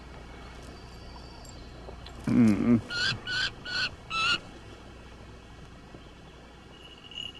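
Bird calls: one low, wavering call, then four short, higher-pitched calls in quick succession.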